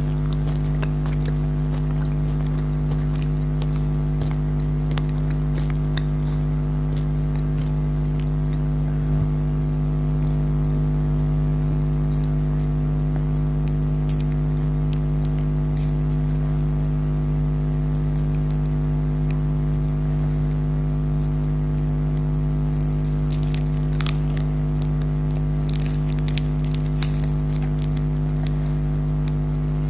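Close-up eating of jelly candy: small clicks and crackles of chewing, coming thicker in the last several seconds, over a steady low hum.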